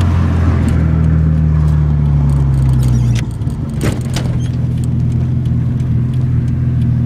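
Nissan RB25DET turbocharged straight-six in a 240SX, heard from inside the cabin while driving at low revs in traffic. Its steady note drops in pitch and loudness about three seconds in, and a sharp click follows shortly after.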